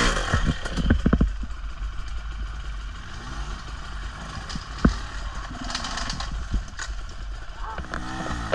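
Trail motorcycle riding over muddy, rough ground: the bike runs with clatter and knocks from the terrain, a cluster of knocks about a second in and one sharp knock near the middle.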